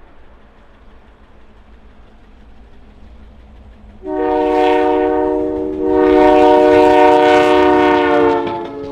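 Air horn of CN GP38-2W diesel locomotive 4774 sounding a multi-note chord: a shorter blast about four seconds in, followed straight away by a longer blast that stops near the end. Before and under the horn, a low rumble from the locomotive.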